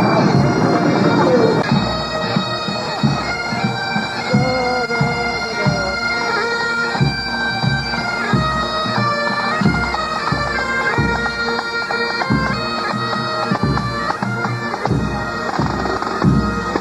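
Bagpipes playing a marching tune over their steady drone, with a regular low beat underneath.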